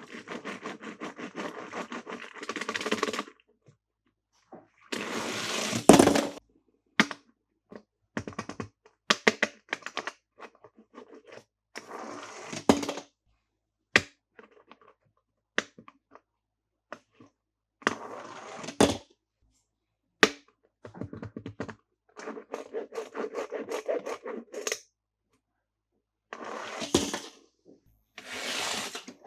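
Plastic toys being handled: bursts of rapid clicking, rattling and scraping a second or a few seconds long, broken by short silences, with a few sharper louder clicks.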